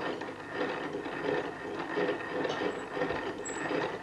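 Bryan Donkin's 1820 hand-cranked geometric lathe (rose engine) running, its gears and mechanism making a dense, steady clatter of rapid clicks.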